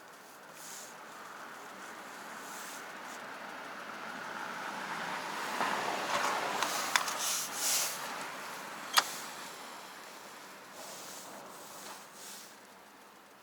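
A vehicle passing by: a noise that swells, peaks and fades over several seconds, with two sharp clicks, the second one loudest.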